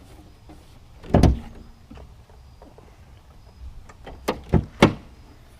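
A pickup truck door shuts with a heavy thud about a second in. Three sharp metallic clunks follow in quick succession near the end.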